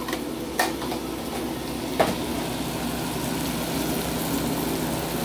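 Onions, tomato and shrimp sizzling steadily in a frying pan over a gas burner, with two light taps of a utensil against the pan, about half a second and two seconds in.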